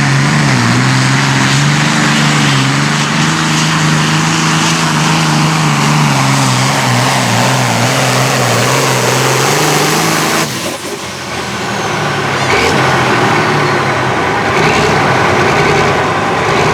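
Super Farm class pulling tractor's turbocharged diesel engine at full throttle under load, pulling the sled down the track with a steady, loud engine note. About ten seconds in the engine note drops off suddenly as the run ends. A rougher, quieter running noise with faint whines follows.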